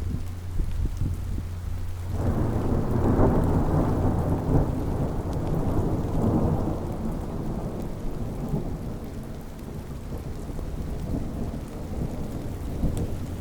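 Thunderstorm: steady rain with a long roll of thunder that breaks in about two seconds in, swells, and slowly rumbles away over the next several seconds.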